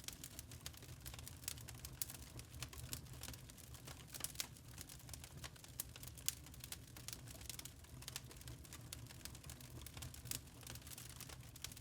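Wood fire in a fireplace crackling: irregular, rapid sharp snaps and pops over a low steady rumble.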